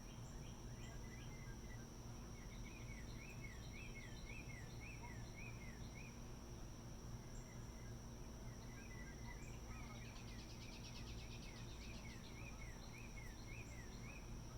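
A songbird singing a run of short, repeated down-slurred notes, a few per second, in two bouts with a pause between. A rapid high ticking trill joins during the second bout. Underneath are a steady high-pitched insect drone and a low hum of distant machinery.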